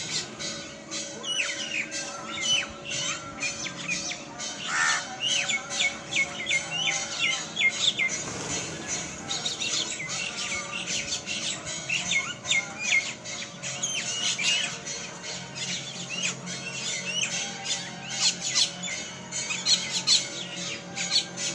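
A flock of small birds chirping and squawking without a break, many short calls overlapping, over a steady low hum.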